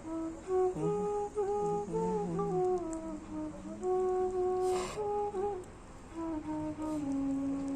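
Bansuri (bamboo flute) playing a slow melody of held notes joined by slides. A short breathy burst of noise comes about five seconds in.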